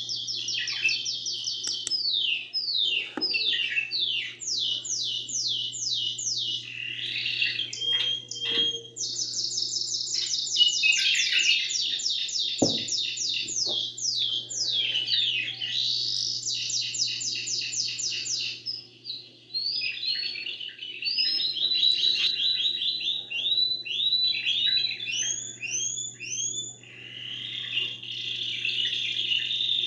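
Domestic canary singing: a near-continuous run of fast rolling trills, each a rapid series of repeated notes, changing to a new trill every few seconds. A faint steady low hum lies underneath.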